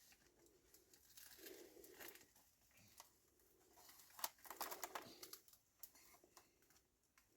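Faint bird cooing, a few short low calls, with light crinkling and scattered clicks.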